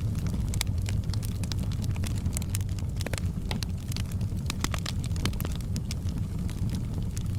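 Firewood burning in a fireplace: frequent irregular crackles and pops over a steady low rumble of the flames.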